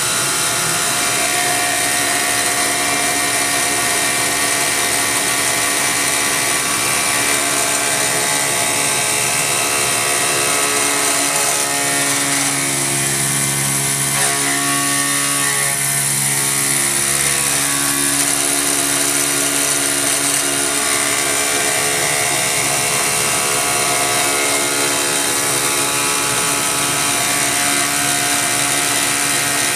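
CNC milling machine with a belt-drive spindle cutting a part: a steady, loud machining noise made of several held tones. The lower tones stand out more from about twelve to twenty seconds in, then fade back.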